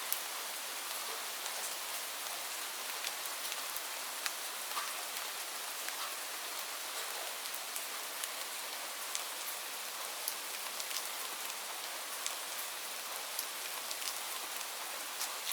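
Steady rain falling: an even hiss dotted with many separate sharp drop impacts.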